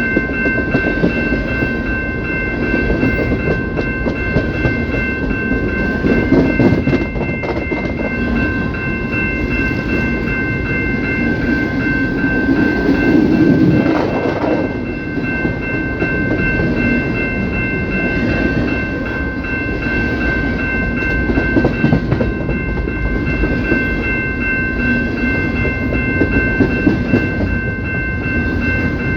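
CPKC train cars rolling past, wheels clattering over the rails in a steady rumble. Over it, a high ringing tone of several pitches holds steady throughout.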